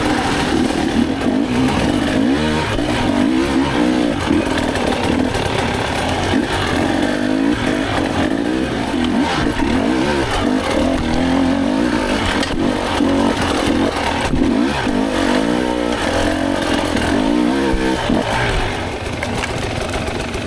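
Dirt bike engine revving up and down constantly as it is ridden through a tight, technical trail section.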